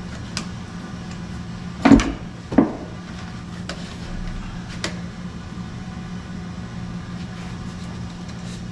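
Two sharp knocks about two seconds in, less than a second apart, and a few light clicks, over a steady low hum.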